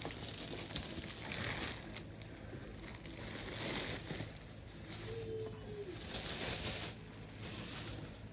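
Faint rustling and handling noises, coming in several soft swells, over a steady low hum.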